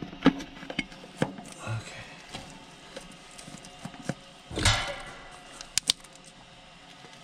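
Hands and tools working on a heat pump's electrical parts: scattered clicks and knocks, a louder clatter about four and a half seconds in, and two sharp ticks just before six seconds.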